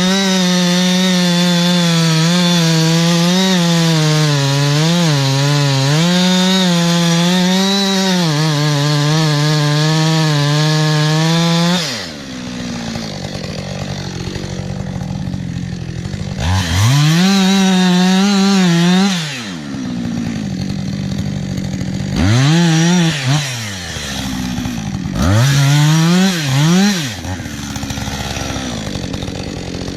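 Chainsaw held at full throttle in a cut for about twelve seconds, then dropping back to idle. It is then revved up and let back down three times, each rev lasting a second or two.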